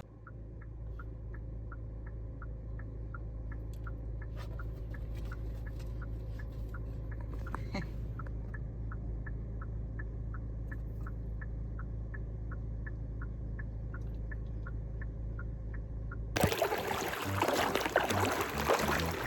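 Inside a car: a steady low engine and road hum with a turn-signal indicator ticking evenly, about three ticks a second. The ticking and hum cut off about 16 seconds in, when music begins.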